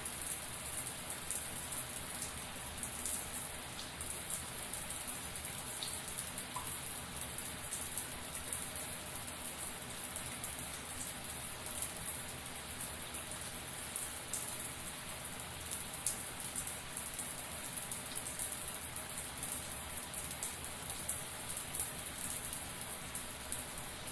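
Shower water running steadily, a dense spatter of drops hitting a hard surface with a fine hissing patter.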